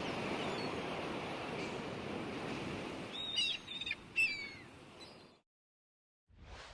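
Nature ambience: a steady rushing noise with a few birds calling in short falling whistles about three seconds in. It fades out to silence at about five and a half seconds, and another sound starts up near the end.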